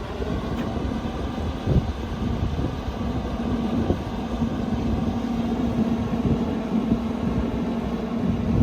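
Low rumble of a running vehicle engine, with a steady hum that comes in about two and a half seconds in and holds, and a few short thumps.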